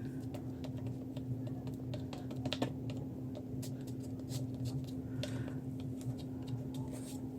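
Scattered light clicks and taps from hands handling paper pieces and small crafting tools on a work surface, over a steady low hum.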